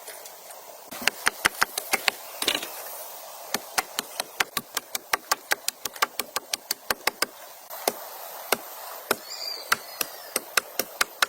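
A steady run of sharp knocks, about three a second, like repeated blows on wood. They thin out to a few scattered knocks in the last few seconds, with faint high chirps near the end.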